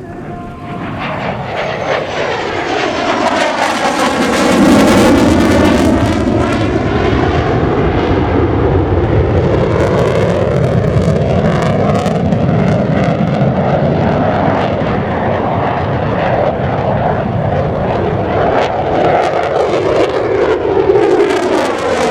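Mitsubishi F-2B fighter's single F110 turbofan engine roaring in flight. The jet noise grows louder over the first four seconds, then stays loud, with a crackle on top and a shifting, swooshing tone as the aircraft moves through its manoeuvres.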